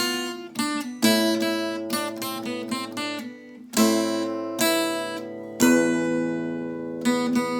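Acoustic guitar playing an enka melody, plucked notes and chords. A quick run of notes in the first second gives way to slower, longer ringing notes over a held bass.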